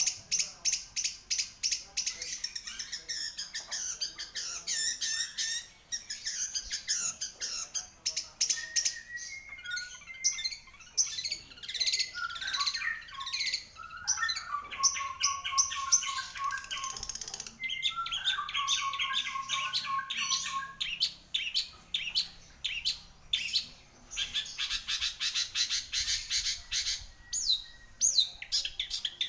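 Long-tailed shrike (cendet) in full, continuous song: rapid, harsh chattering notes mixed with varied whistled phrases. In the middle it gives runs of repeated lower whistled notes.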